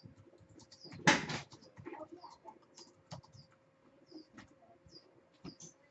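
Short, high chirps that fall in pitch, repeated irregularly, among scattered small clicks and a faint steady hum, with one brief loud rustle about a second in.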